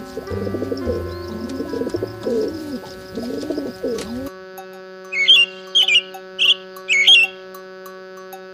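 A pigeon cooing in a run of low rising-and-falling coos, then, about four seconds in, a small finch giving short sharp chirps about every half second, louder than the coos. Steady background music runs underneath.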